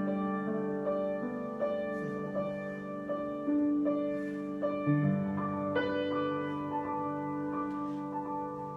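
Solo piano improvisation: slow, sustained chords and single notes ringing on, with a new chord struck about six seconds in.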